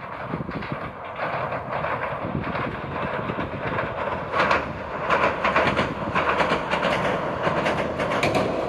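Toyama Chiho Railway 17480-series electric train running across a girder river bridge, wheels clattering over the rail joints, getting steadily louder as it approaches.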